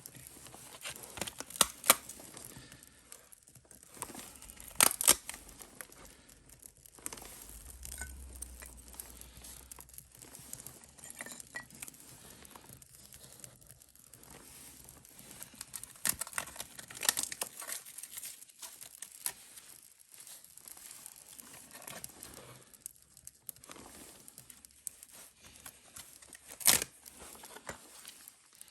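Dry tinder being torn and crumpled: irregular rustling broken by sharp, louder snaps, a few of them standing out, the strongest near the end.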